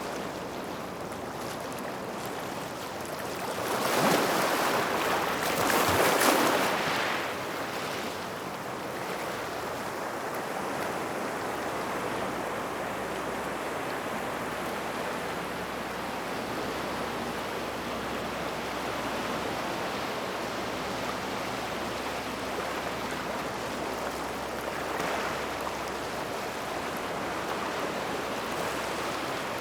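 Waves washing onto a gravel shoreline near rocks, with two louder breaks about four and six seconds in and a smaller one near the end, over a steady wash of surf.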